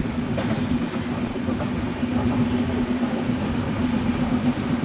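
Passenger train running along the track, heard from on board: a continuous rumble of wheels and carriage with a steady hum.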